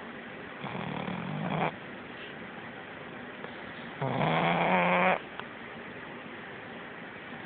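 A pug snoring: two snores, one about a second in and a louder one about four seconds in, each lasting about a second.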